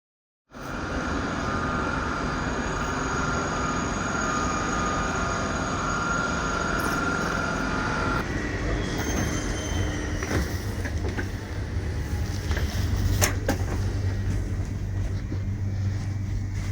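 Railway train running, with a steady high-pitched wheel squeal over the rolling noise that stops about eight seconds in, leaving a low steady rumble with a few sharp clicks.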